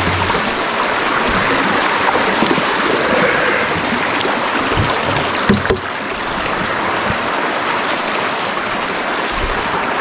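Steady rush of flowing stream water, with a couple of faint knocks about halfway through.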